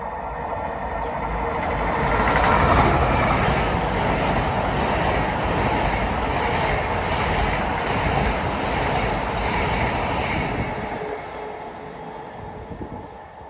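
A train passing by. It builds to its loudest about three seconds in, stays loud for several seconds, then fades away near the end.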